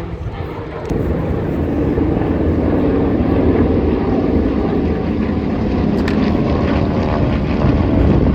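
Propeller-driven aerobatic plane's piston engine running loud and steady, growing louder about a second in.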